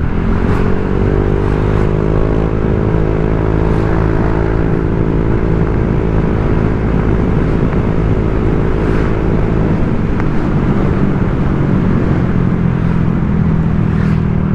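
Honda Vario 125 scooter's single-cylinder engine running under way through an aftermarket TZM Project 'standard racing' exhaust, a deep, bassy note. The engine note rises over the first couple of seconds, holds steady, and eases to a lower pitch about ten seconds in.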